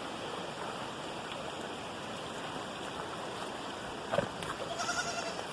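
Flood runoff water running steadily over and out of the ground, a continuous rushing hiss. A goat bleats faintly near the end.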